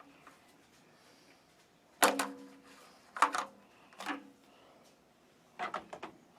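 Sharp sheet-metal clanks with a brief ring, about four knocks a second or so apart, as the electric water heater's steel access cover is taken off and handled.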